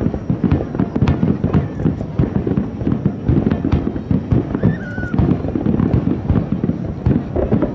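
Aerial fireworks shells bursting in a dense, unbroken barrage: many deep booms a second, overlapping with crackling.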